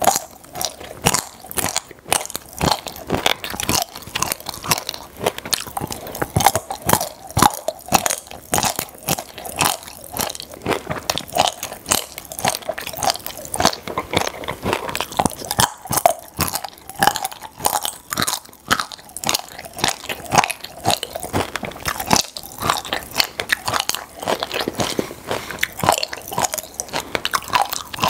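Chewing and crunching of popping-candy chocolate balls, a dense run of sharp crackles and snaps with several a second, as the candy pops in the mouth.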